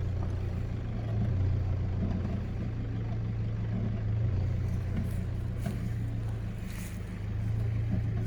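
Nissan Patrol Y61's engine running at low revs as it drives off-road, its steady low hum swelling and easing a little.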